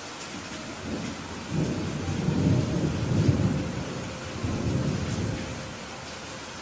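Steady rain with a roll of thunder: a low rumble builds about a second in, is loudest around the middle, and fades away before the end.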